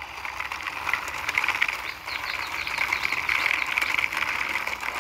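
Plastic toy truck with a toy excavator on its back, pushed by hand, its wheels rolling with a steady crackly rattle of small ticks.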